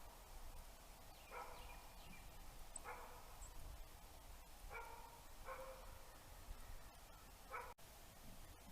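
Faint dog barking: five short single barks, irregularly spaced about one to two seconds apart.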